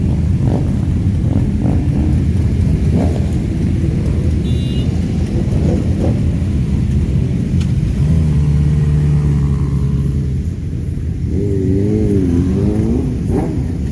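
Motorcycle engines running loud in a group ride, a dense low rumble with a steady held note for a couple of seconds past the middle and a pitch that wavers up and down near the end.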